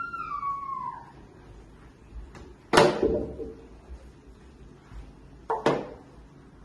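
A drawn-out, falling animal call ends about a second in. Then come two sharp knocks about three seconds apart, the first louder, each with a brief ringing tail like a door or drawer being knocked or shut.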